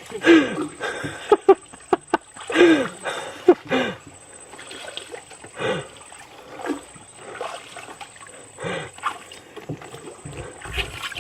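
A young child squealing and shrieking in short, falling cries while splashing the water from the side of a small boat, with light splashes and trickles. The cries come thick in the first few seconds, then more sparsely.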